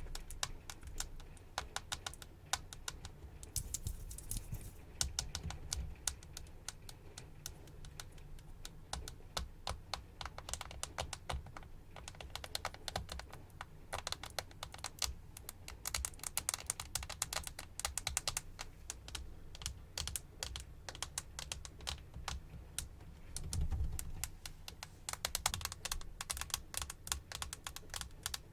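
Rapid, dense tapping clicks as an ASMR trigger, sounding like fast typing on a keyboard, going on throughout with brief busier flurries.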